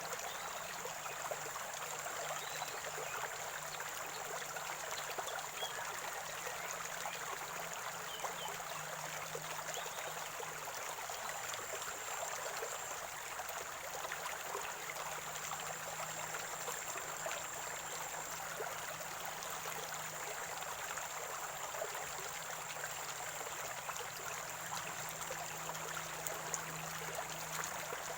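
Water from a natural spring flowing and gurgling steadily over stones, an even unbroken rush, with a faint steady high tone above it.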